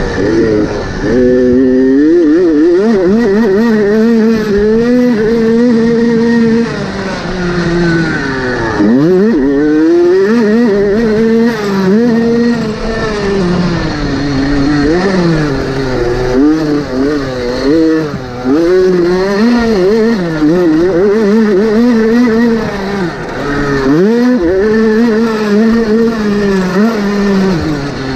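Motocross motorcycle engines revving hard, the pitch climbing and dropping over and over with throttle and gear changes. A few times the engine note sweeps sharply down and back up.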